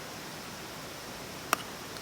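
Wood campfire burning with a steady hiss and a single sharp crackling pop about one and a half seconds in.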